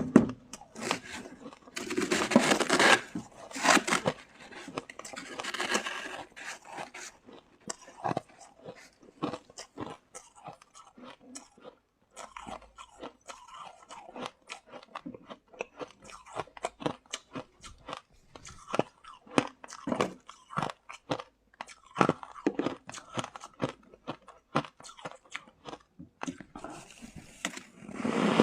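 Close-miked biting and chewing of shaved ice: a run of irregular crunches, louder in several bunches of bites.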